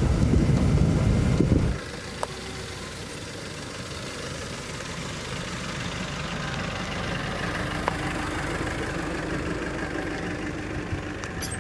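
Loud low rumble of wind on the microphone that cuts off abruptly just under two seconds in, followed by a vehicle engine running steadily at a lower level.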